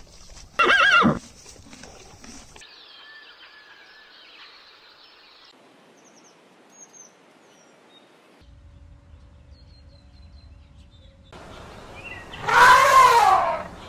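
Animal calls in separate short takes: a loud call falling in pitch about half a second in, a few faint bird chirps in the middle, and a second loud, wavering call near the end.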